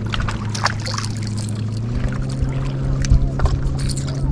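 A motorboat engine running steadily, its pitch rising a little about halfway through, with scattered light clicks over it.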